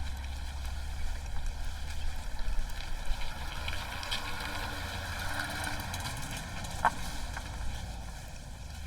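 Outdoor ambience: a steady low rumble with a faint swell of noise in the middle and a sharp click about seven seconds in.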